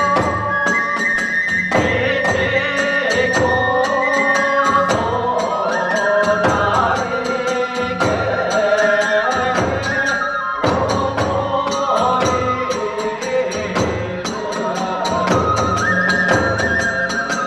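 Hiroshima kagura hayashi music: a bamboo flute melody over quick, even beats of taiko drum and clashing tebyoshi hand cymbals, about four strikes a second.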